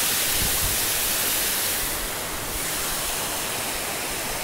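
Steady rushing of a fast river, an even hiss with no break.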